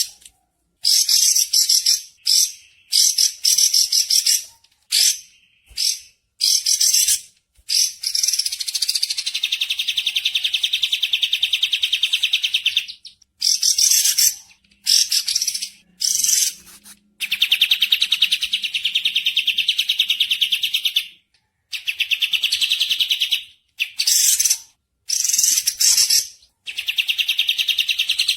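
Small birds calling in fast, high-pitched chattering trills, one pulsed run of notes after another, from a few tenths of a second to several seconds long, each run starting and stopping abruptly as if cut together.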